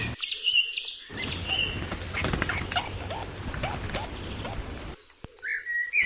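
Green woodpeckers squabbling at the pond's edge: repeated short calls and wing-flapping, with higher bird chirps over the top. The sound drops out for about half a second near the end.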